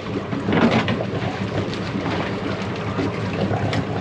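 Boat engine running steadily, with a louder rush of noise about half a second in and a short sharp knock near the end.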